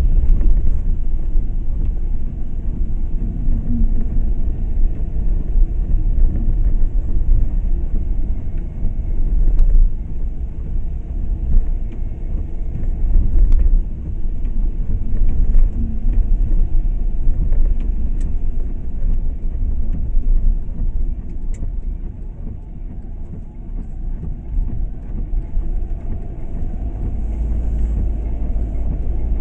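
Car on the move: steady low rumble of engine and road noise.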